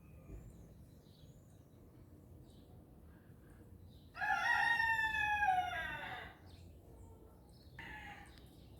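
A rooster crows once, a call of about two seconds starting about four seconds in, followed by a short second call near the end. Faint songbird chirps in the background.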